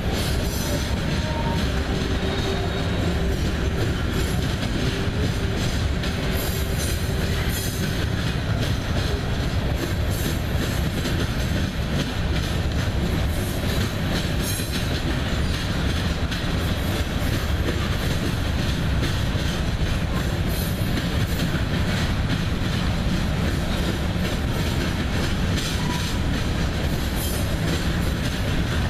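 Covered hopper cars of a freight train rolling past: a steady heavy rumble of steel wheels on rail with scattered clicks. A faint wheel squeal comes in the first few seconds.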